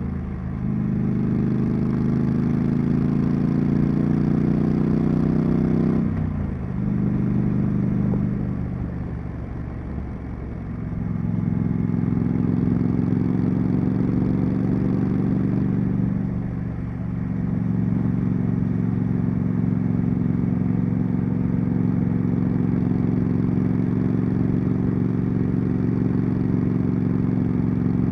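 Triumph Street Scrambler's 900 cc parallel-twin engine and exhaust under way, pulling with a slowly rising pitch, changing gear about six seconds in, easing off for a couple of seconds near ten seconds, then another short dip near the middle before holding a steady cruise.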